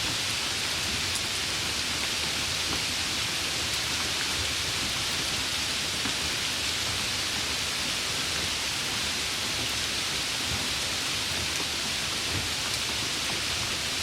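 Steady rain: an even, unbroken hiss, brightest in the upper range, with a few faint scattered drop ticks.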